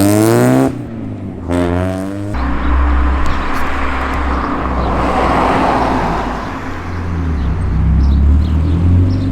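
Mazda Miata four-cylinder with a loud aftermarket exhaust accelerating hard: the revs climb, break off under a second in at a gear change, climb again in the next gear, then settle into steady, lower running for the rest.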